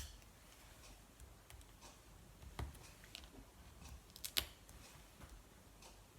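Quiet handling of paper card pieces and small foam adhesive pads: a sharp click at the start, then a few lighter clicks and taps, the clearest about two and a half and four and a half seconds in, over soft rustling.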